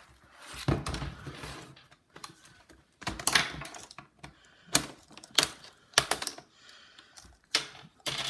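Irregular clicks and knocks of small plastic and metal laptop parts being handled and fitted into the chassis during reassembly.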